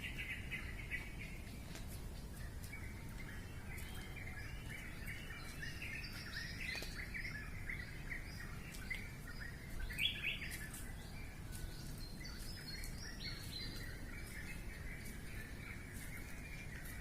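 Wild birds chirping, a dense stream of short high notes with a louder, sharper call about ten seconds in, over a low background rumble.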